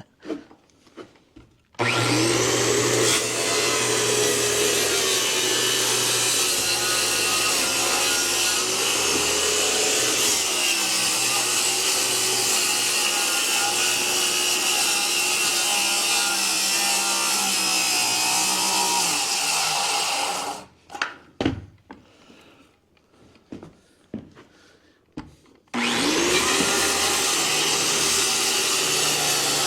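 Circular saw spinning up and ripping through wood boards alongside a floor joist, running steadily for about eighteen seconds. It stops, a few knocks and clunks follow, and then the saw spins up again and cuts on.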